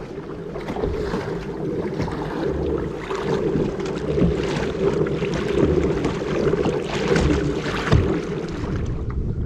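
Wind buffeting the microphone, with water rushing and splashing around a kayak moving across choppy water.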